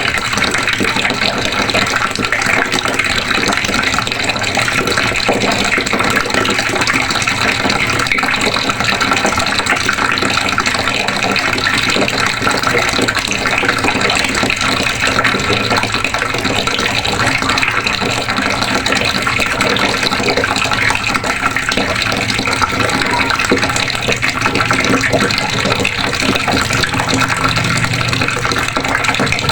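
Water running steadily from a faucet, splashing continuously without pause.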